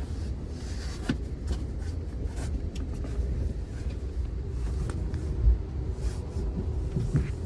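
Steady low rumble of a moving passenger train heard from on board, with scattered short clicks and knocks.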